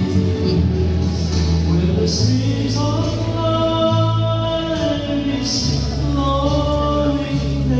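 Gospel vocal quartet singing in harmony over a steady instrumental accompaniment; the voices come in about a third of the way through and hold long notes.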